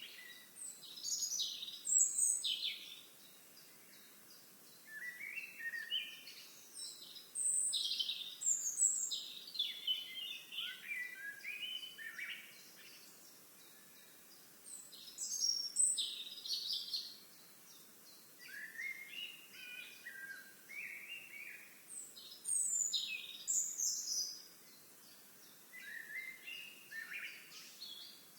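Songbirds singing in bouts of quick, varied high chirps and trills lasting a few seconds each, with short pauses between bouts, over faint outdoor background noise.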